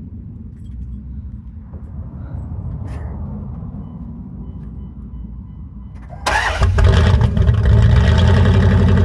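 2002 Dodge Ram pickup's engine starting about six seconds in and then running loudly through its existing exhaust. Before that, a low steady rumble.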